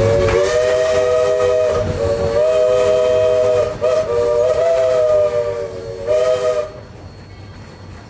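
Narrow-gauge steam locomotive's chime whistle sounding a loud three-note chord in several blasts, the first two long, with a last short toot before it cuts off, leaving steam hiss.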